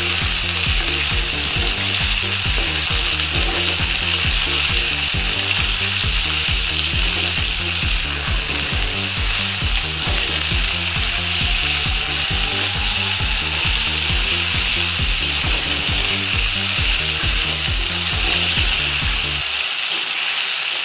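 Mixed chopped vegetables frying in oil and ghee in a kadhai, sizzling steadily while a metal spatula stirs and scrapes them around the pan.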